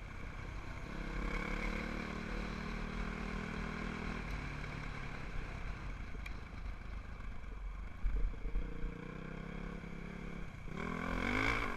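Dirt bike engine running under way, its pitch steady at first and then climbing and dropping again as it revs up near the end, over a low rumble.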